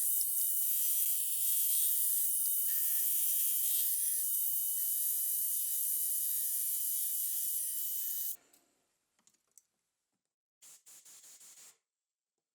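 Milling machine running an annular cutter through a small metal part, a steady high hiss with several steady whining tones that stops abruptly about eight seconds in. A short run of faint clicks follows near the end.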